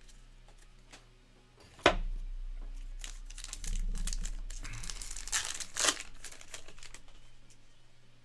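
A trading-card pack's foil wrapper being crinkled and torn open by hand, with a sharp snap about two seconds in and the loudest crackling and ripping from about three to six seconds.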